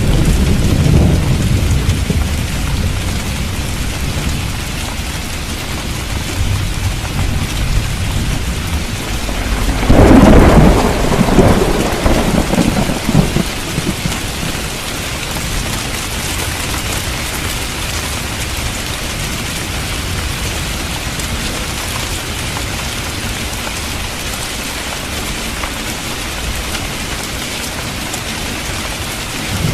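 Steady heavy rain with thunder: a low rumble fading over the first few seconds, then a louder thunderclap about ten seconds in that rumbles for three or four seconds before only the rain is left.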